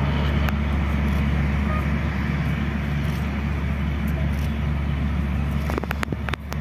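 Steady low drone of a diesel passenger train running away into the distance, with a few sharp clicks about six seconds in.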